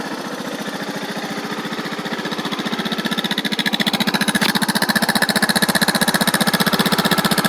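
Suzuki DR650's single-cylinder four-stroke engine idling on choke shortly after a cold start, a steady rapid thumping pulse. It grows somewhat louder a couple of seconds in, then holds even.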